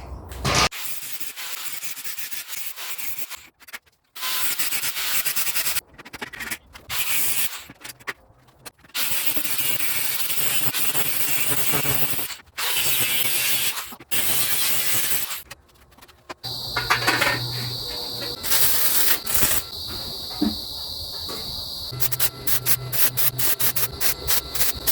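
Power tools at work in short edited cuts: stretches of rough abrasive noise, then, about two-thirds in, an electric tool motor running with a steady high whine and low hum, and near the end a rapid train of clicks.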